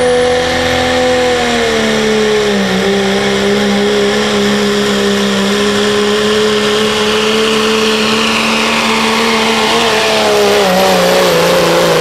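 Pro street diesel pickup truck pulling the sled at full throttle: a loud, steady engine note that drops slightly in pitch about two and a half seconds in, as the engine loads down, and wavers near the end.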